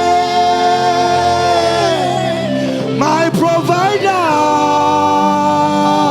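Gospel worship music: a voice holds long sung notes, sliding down to a new held note about halfway through, over a steady sustained instrumental backing.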